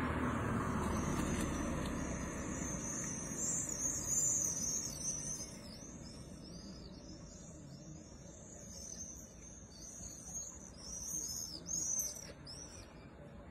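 Songbirds singing, a quick run of high chirps and swooping notes that keeps on throughout. At the start a passing car's tyre and engine noise fades away over the first few seconds.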